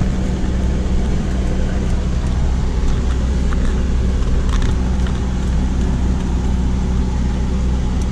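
Car engine running at low speed, heard from inside the cabin as a steady low drone, with a few faint knocks.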